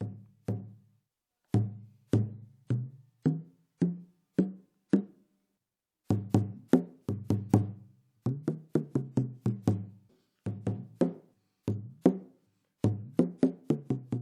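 A drum played in a rhythmic pattern of single strokes, each with a short ringing decay, sounding at a few different pitches. The playing pauses for about a second near the middle.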